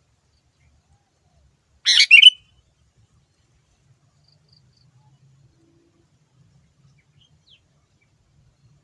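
Sooty-headed bulbul giving one short, harsh call of about half a second, about two seconds in.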